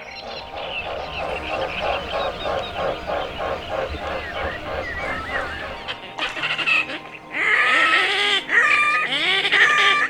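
Geese honking: rapid repeated calls, about four a second, then louder, higher calls from about seven seconds in.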